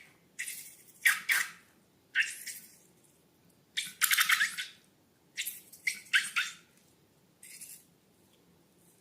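Slime being squeezed and worked by hand: a string of short, wet squishing and crackling squelches, about nine in all, with a longer crackly one about four seconds in.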